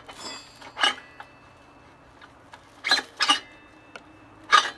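Steel rear axle of a motorcycle being worked out of the wheel hub and swingarm: about five separate metal clinks and scrapes, each with a short ringing tone, the loudest near the end.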